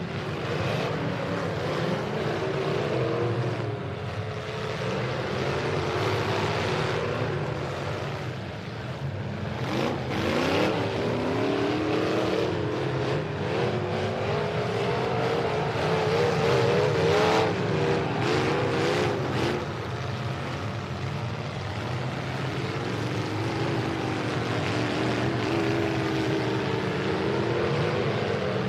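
Several demolition derby trucks' engines running and revving, their pitch rising and falling as drivers gas it, with a few hits between about ten and eighteen seconds in.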